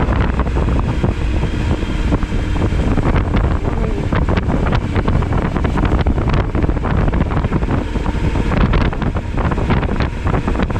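Wind rushing and buffeting over the microphone of a motorcycle rider under way, with the engine and road noise of a Suzuki V-Strom 1000XT's V-twin running steadily underneath.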